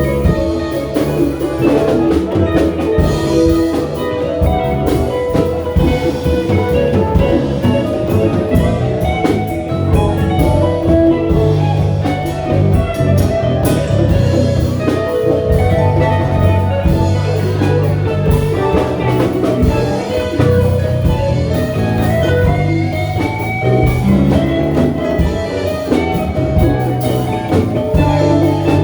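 Live band playing an instrumental passage, guitar over a drum kit.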